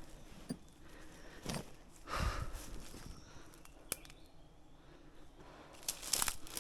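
Scattered rustling and light knocks of someone moving about on foot, with a sharp click a little before four seconds in and denser rustling near the end.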